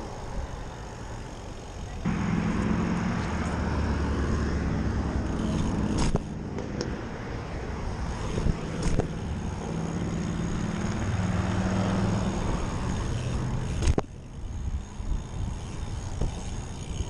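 Road traffic: a motor vehicle's engine running close by with a noise haze of passing traffic, its low tone shifting in pitch. It starts abruptly about two seconds in and cuts off abruptly a couple of seconds before the end.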